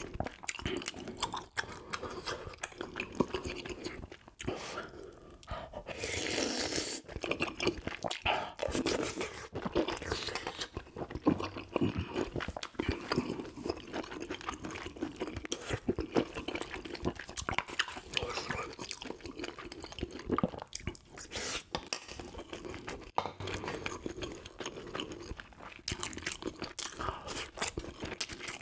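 Close-up chewing and crunching of grilled yellow croaker (gulbi) eaten bones and all, with many irregular crackling bites.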